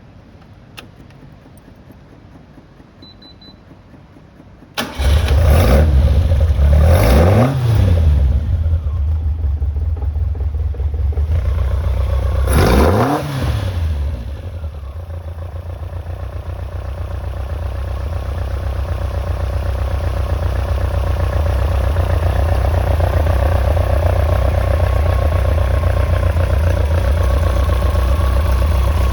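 Caterham Super Seven 1700SS's four-cylinder engine being started: a click and a short beep, then about five seconds in the engine catches and runs loud. It is revved up and down twice, then settles into a steady idle.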